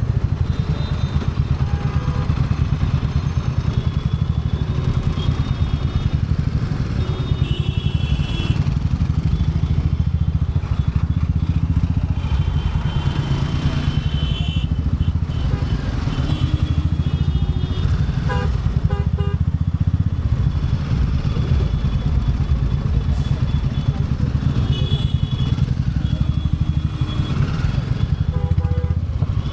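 Royal Enfield Bullet 350's single-cylinder engine running steadily under way, its exhaust beating in a fast even rhythm close to the microphone.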